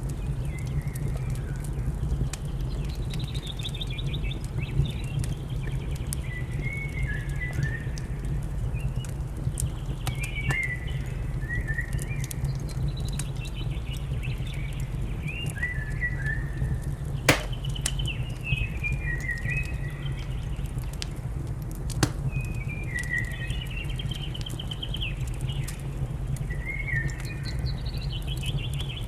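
Wood fire crackling with scattered sharp pops over a steady low rumble, while a songbird sings short, descending, trilled phrases every few seconds. Two louder pops stand out about two-thirds of the way through.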